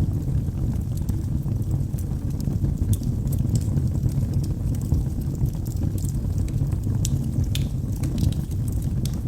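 Wood logs burning in a fireplace: a steady low rumble of flames with scattered sharp crackles and pops, a few each second.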